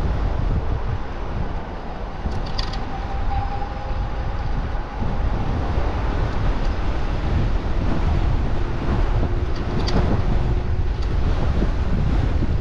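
Wind buffeting the microphone of a camera on a moving e-bike, a steady low rumble of rushing air, with a faint hum coming and going and a couple of light clicks.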